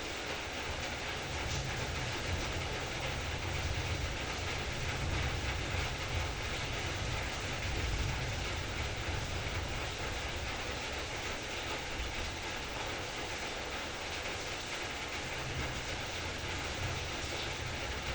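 Heavy rain falling steadily, an even hiss with a deep low rumble that swells through the middle.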